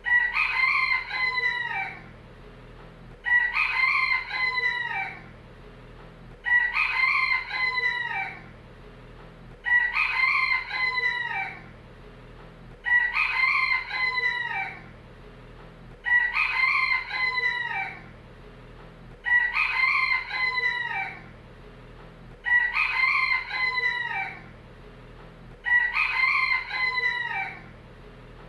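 Rooster crowing cock-a-doodle-doo, nine identical crows of about two seconds each, evenly spaced about three seconds apart, each trailing off in a falling note: one crow looped over and over. A low steady hum runs beneath.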